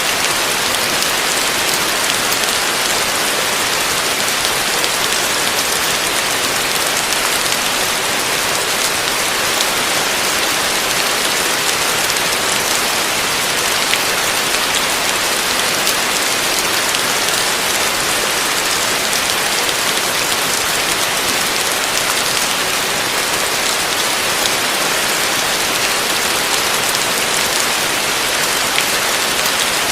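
Heavy rain falling steadily, a dense even hiss of drops on surfaces with no thunder.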